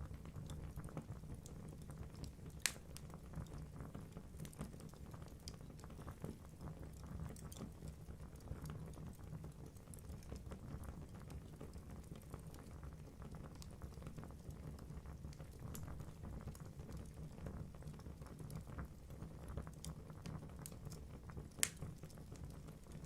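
Wood logs burning in a fireplace: a low steady rumble of flames with frequent small crackles, and two louder pops, one about three seconds in and one near the end.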